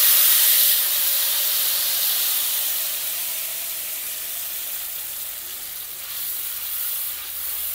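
Freshly ground chili sambal paste sizzling in hot oil in a wok, loudest right after it goes in and dying down over the next few seconds; a spatula stirs through it near the end.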